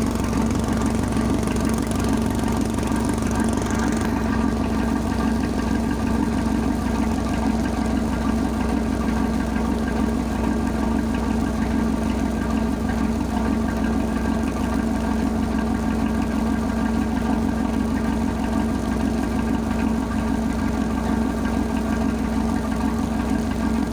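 Tugboat engine running steadily at constant speed, with a fast, even beat.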